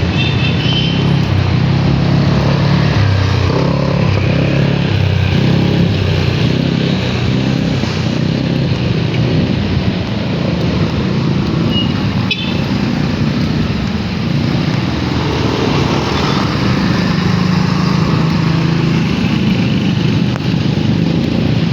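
Motorcycle engine running on the move, its pitch rising and falling with the throttle, over steady road noise.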